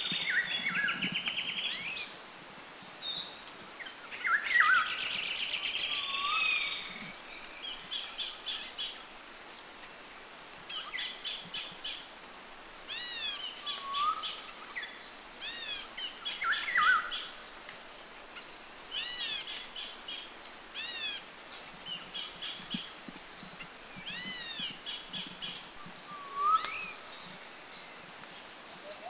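Several songbirds singing and calling: repeated arching chirps and short rapid trills, one after another, over a steady faint hiss.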